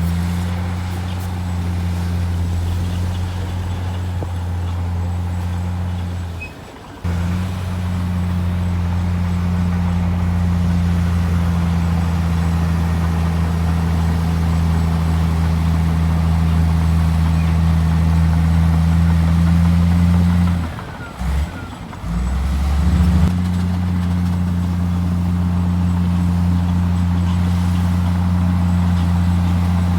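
Heavy diesel engine of earthmoving machinery, a bulldozer or dump truck, running with a steady low drone. The sound briefly drops out twice, once about a quarter of the way in and again for a couple of seconds past the middle.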